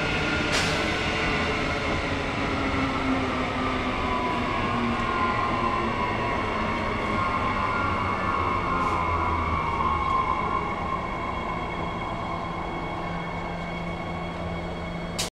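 Electric suburban train heard from on board, its motor whine falling slowly in pitch as it slows into a station, over a steady rumble of wheels on the track. A sharp click about half a second in.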